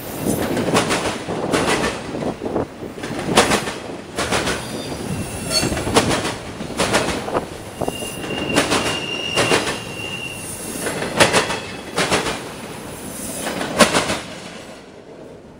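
Freight train of autorack cars rolling by, its wheels clicking sharply over the track every second or so. A brief high-pitched wheel squeal comes about eight seconds in. The noise dies down near the end as the last car passes.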